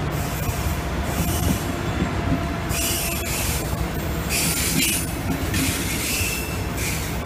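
Israel Railways double-deck passenger train rolling past with a steady rumble of wheels on rail. From about three seconds in, several spells of high-pitched wheel squeal rise above the rumble.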